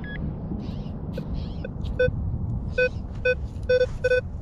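Handheld metal-detecting pinpointer beeping in short pulses of one steady pitch, starting about two seconds in and coming quicker toward the end as it closes on a buried target, over a low steady rumble.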